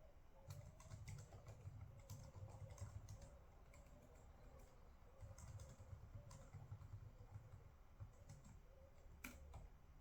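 Faint typing on a computer keyboard in two short runs of key clicks, with one sharper click about nine seconds in, over a faint steady hum.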